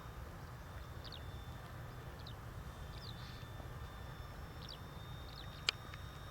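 Faint short, falling bird chirps, about one every second, over a low steady outdoor rumble, with a single sharp click near the end.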